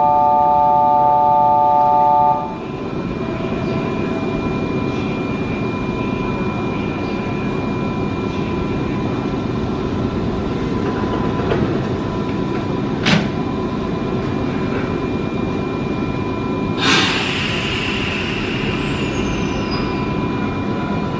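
A steady multi-tone electronic departure signal cuts off about two seconds in. After it, a stopped Nankai electric commuter train hums steadily, with a sharp click past the middle. About three quarters through comes a burst of air hiss with a falling high whine as its sliding doors close.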